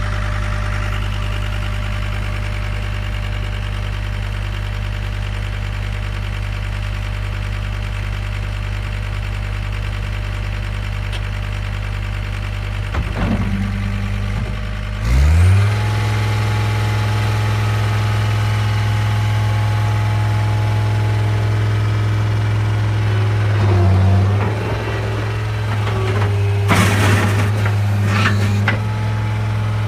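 John Deere 328D skid steer's diesel engine idling steadily, then revving up about halfway through and holding a higher, steady speed. Brief louder surges come near the end.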